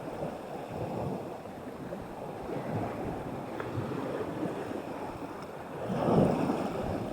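Strong, gusting wind blowing over the microphone, with waves washing in; it swells louder about six seconds in.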